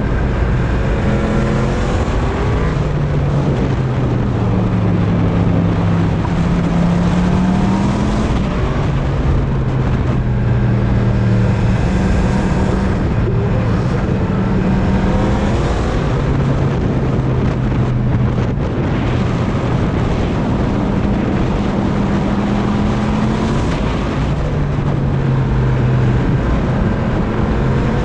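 Yamaha MT-10's crossplane inline-four engine running under way, its revs rising and falling several times, under loud wind rushing over the microphone.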